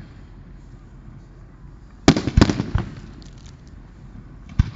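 Aerial fireworks shells bursting: a quick cluster of about four sharp bangs about two seconds in, then one more bang just before the end.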